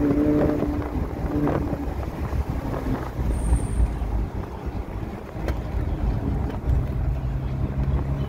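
Ferrari Portofino's twin-turbo V8 holding a raised note for about the first two seconds at the end of a rev climb, then easing off into a low rumble with wind buffeting the microphone. Near the end the engine settles into a steady low drone.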